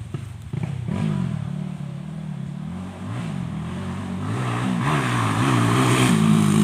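Honda XRM underbone motorcycle's single-cylinder four-stroke engine revving up and down repeatedly, growing louder over the last few seconds.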